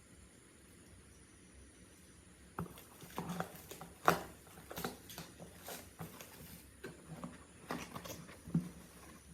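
Small clicks and knocks of tools and parts being handled on a workbench during the restoration of a 2-stroke engine water pump. It is quiet for the first couple of seconds, then irregular taps follow, the sharpest about four seconds in.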